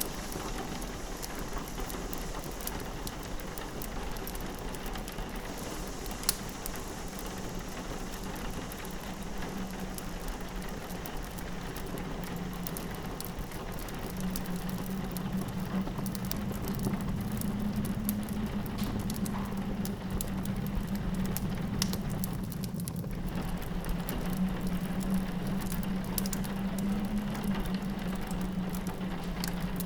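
Rain pattering against a window over the crackle of a wood fire. A low steady drone grows louder about halfway through.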